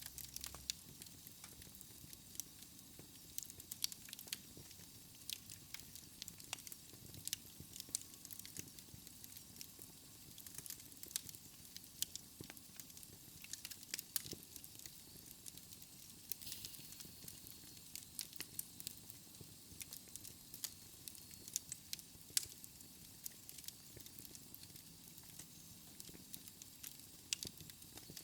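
Wood fire crackling in a fireplace, with irregular sharp pops and snaps over a soft steady hiss.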